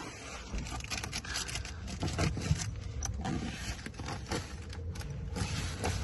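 Irregular rustling, scraping and small clinks of things being handled and moved about, as a bag holding the locking wheel nut is rummaged through.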